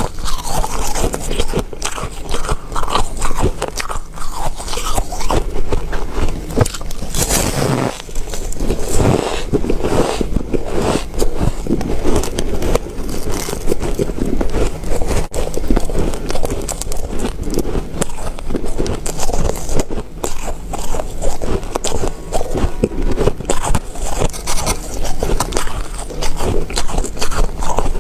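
Close-miked biting and chewing of ice: a loud, continuous run of crunching and crackling as the ice breaks between the teeth.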